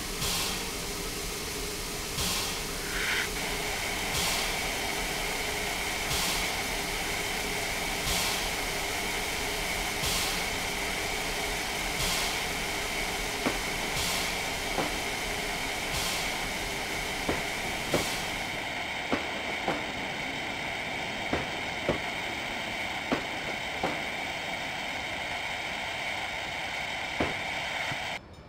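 A train running with a steady hiss and a high, steady tone. A click comes about every two seconds, and the clicks come faster after about eighteen seconds. The sound cuts off sharply near the end.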